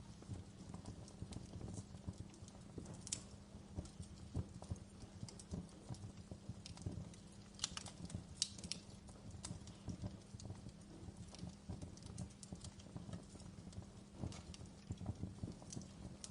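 Wood fire crackling steadily over a low rumble of flame, with irregular small pops and a few sharper snaps about 3 and 8 seconds in.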